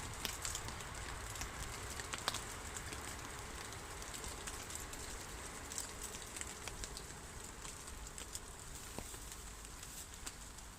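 Campfire crackling, with scattered sharp pops over a steady hiss.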